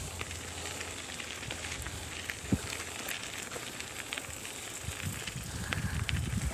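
Bicycle tyres rolling over a woodland trail: a steady rough noise with scattered crackles and clicks, and one sharper knock about two and a half seconds in.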